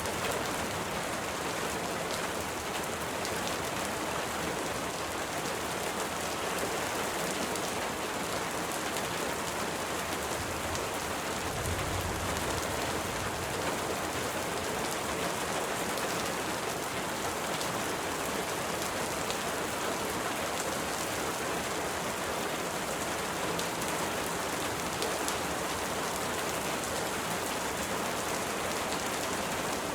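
Steady rain falling: a dense, even hiss scattered with small drop ticks, with a brief low rumble near the middle.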